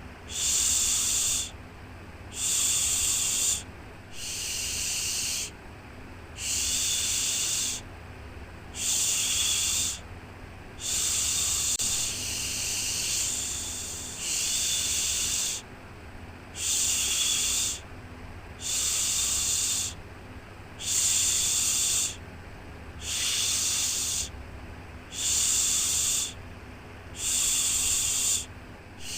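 Rhythmic shushing ('shhh') for soothing a baby to sleep: a long hiss repeated about every two seconds, with short gaps between, over a steady low rumble.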